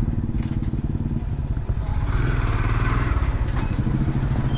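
Motorcycle engine running steadily while riding, with a brief rush of noise about two seconds in.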